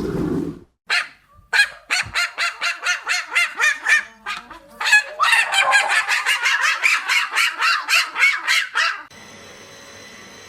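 Domestic waterfowl calling loudly in a fast series of honking calls, about five a second, with a short break midway. Near the end the calls cut off suddenly and a steady hum takes over.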